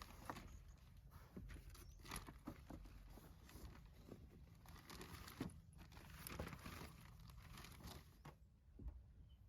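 Near silence with faint rustling and scattered light clicks.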